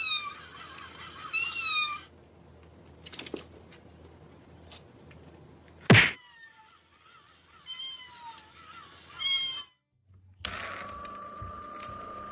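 Cats meowing in short, arching calls across several quick clips, with one sharp loud thump about six seconds in. A steady high-pitched tone takes over near the end.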